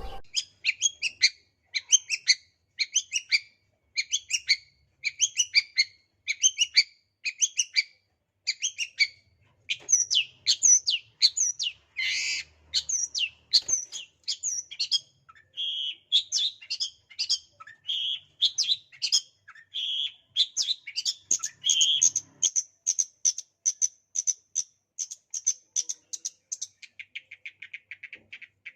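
Long-tailed shrike (cendet) singing. For the first eight seconds it repeats short clustered chirp phrases about every 0.7 s. Then it breaks into denser, more varied song, and near the end a fast, lower trill.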